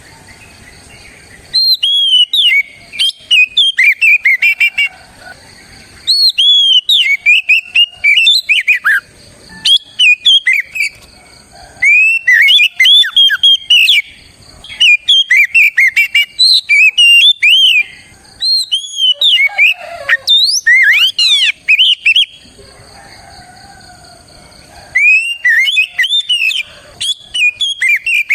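Oriental magpie-robin singing loud, varied whistled phrases of quick up-and-down notes. The song comes in bursts of a few seconds, broken by short pauses and one longer pause past the middle.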